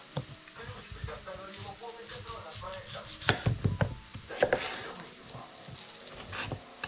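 Kitchen food-prep handling: scattered knocks and clinks of dishes and utensils, with a cluster of louder knocks about three to four and a half seconds in.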